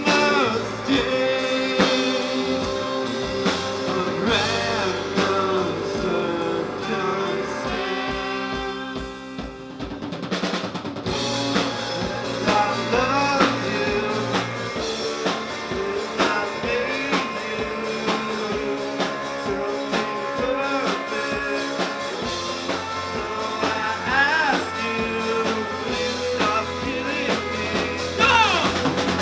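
A live rock band playing: electric guitar with bending, wavering notes over a drum kit. It eases off briefly about a third of the way in, then the drums pick back up.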